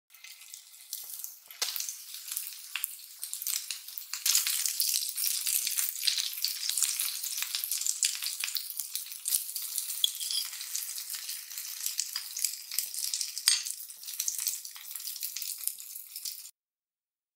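Minced sea bass patties sizzling and crackling as they fry in ghee in a nonstick pan, with sharp spattering pops now and then. The sizzle builds over the first few seconds and cuts off suddenly near the end.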